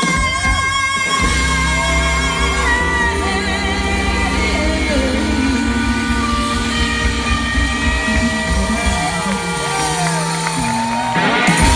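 Live band music: long wavering lead notes over bass and drums, with a loud full-band hit near the end.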